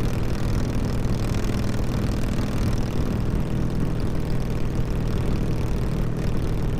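Harley-Davidson V-twin with loud exhaust running steadily at highway cruising speed, heard through the rider's microphone with wind and road noise.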